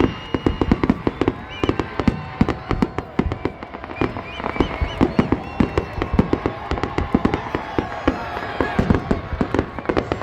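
Fireworks display going off continuously: rapid bangs, booms and crackles, many per second, with no pause.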